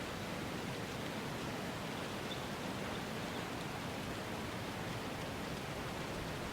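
A steady, even rushing noise with no distinct events: an ambience noise bed.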